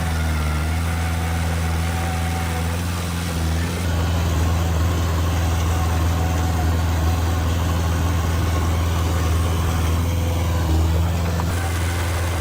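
Diesel engine of heavy earthmoving machinery running steadily at a low, even pitch.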